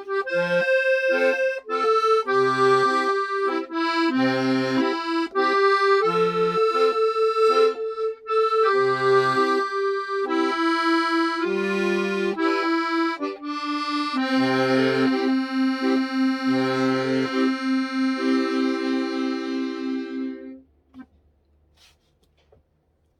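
Solo accordion playing a tune in 6/8 time, melody over bass notes that come roughly every two seconds, closing on a long held final chord that stops about twenty seconds in.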